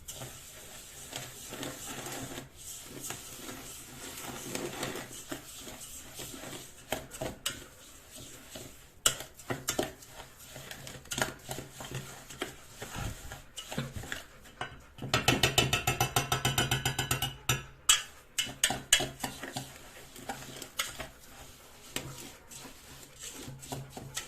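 Foxtail millet and raw egg being stirred and tossed with a kitchen utensil in a pot: irregular scraping and clicking, with a burst of fast, even clicking lasting about two seconds a little past the middle.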